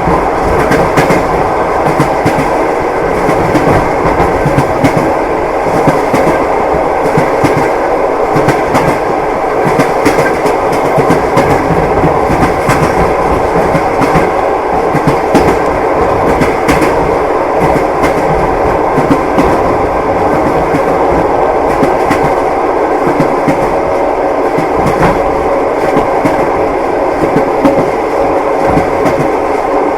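Railway carriage running steadily along the track, its wheels clacking over the rail joints over a continuous rumble.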